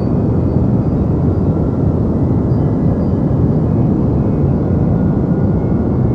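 Deep white noise for sleep: a steady, unchanging hiss weighted heavily toward the low end, with little above the midrange.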